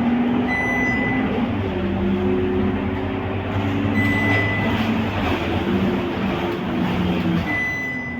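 Scania K230UB single-deck diesel bus engine running under way, its pitch stepping down and up as the automatic gearbox shifts, over steady road noise. A short high beep sounds three times, about three and a half seconds apart.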